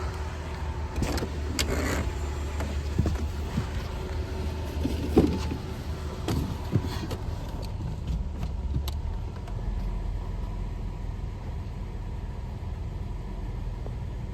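1989 Ford Thunderbird engine idling while the freshly refilled automatic transmission is shifted through the gears, with several clicks and clunks, the loudest about five seconds in. About nine seconds in, the engine's low hum drops to a deeper note.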